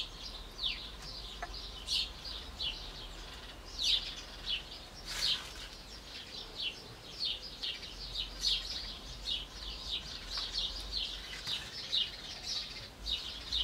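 Small songbirds chirping, a steady run of short, high, falling chirps several times a second.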